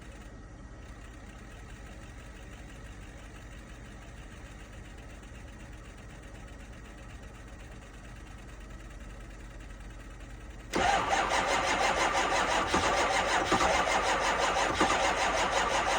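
A faint steady hum, then about ten seconds in the starter suddenly begins cranking the 2005 Ford 6.0 Powerstroke V8 turbo-diesel with a fast, even pulse. The engine is cranking cold at 15 degrees without starting, a cold no-start.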